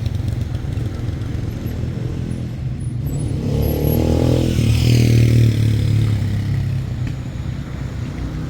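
A motor vehicle's engine running. It grows louder from about three and a half seconds in, peaks around five seconds, then eases off.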